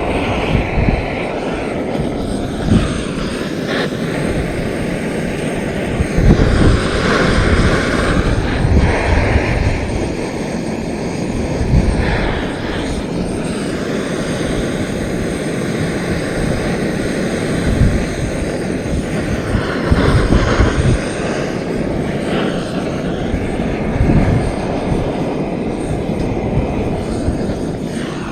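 Handheld gas burner roaring steadily as it is held to the driftwood to light the fire, with wind gusting on the microphone.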